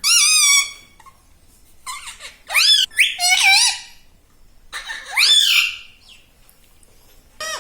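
Pet parrot giving loud calls with wavering, gliding pitch, in three bouts: a short one at the start, a run of calls in the middle and one more about five seconds in.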